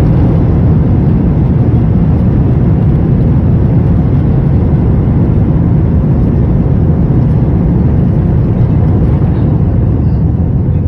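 Airbus A321-200 jet airliner landing: a loud, steady rumble and roar of engines and airflow with no let-up.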